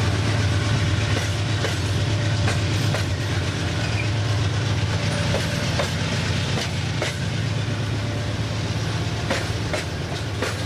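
Freight train wagons rolling past close by, their wheels clicking irregularly over the rail joints. Underneath is a steady low drone from the diesel locomotives.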